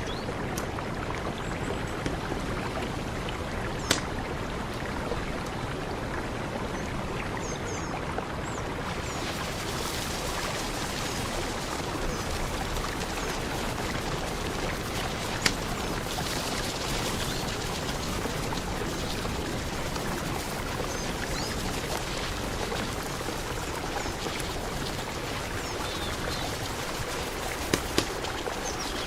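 Mountain river rushing steadily, an even wash of flowing water, with a few sharp clicks standing out.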